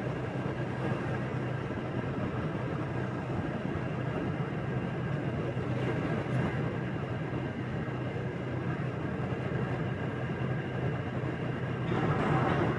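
Motorbike running at a steady cruising pace: a constant low engine hum with road and wind noise, growing louder near the end.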